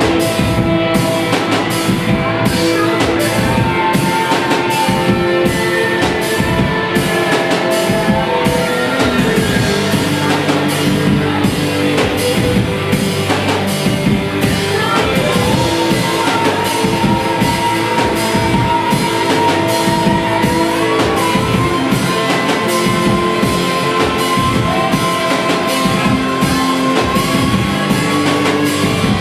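Rock band playing live: a drum kit keeping a steady beat under electric guitars, with long held melody notes over the top.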